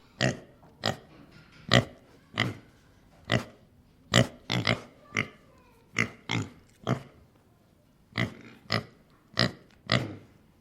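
A pig giving a rapid series of short, sharp calls, about one or two a second, with a brief pause near the two-thirds mark.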